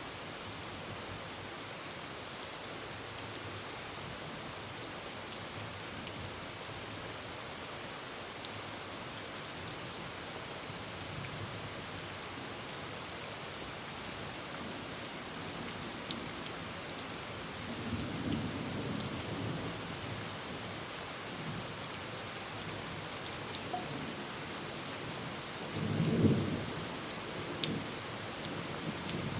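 Heavy rain drumming steadily on a tin roof, with low thunder rumbling about two-thirds of the way through and a louder clap of thunder near the end.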